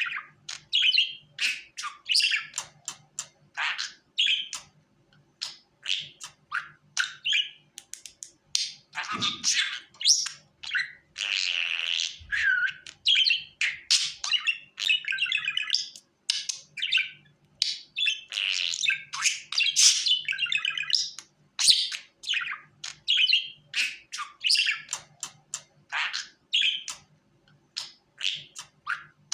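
Budgerigar chattering: a rapid, unbroken string of short chirps and warbles, with a longer continuous warble near the middle.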